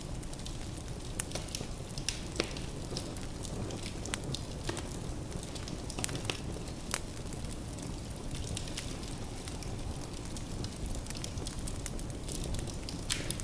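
Firewood burning in a fireplace: irregular sharp crackles and pops over a steady low rumble of the flames.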